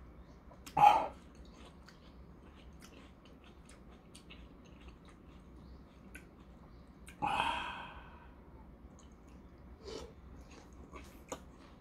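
A person chewing and eating watermelon, with small wet mouth clicks and smacks. A brief loud mouth sound comes about a second in, and a breathy exhale comes near the middle.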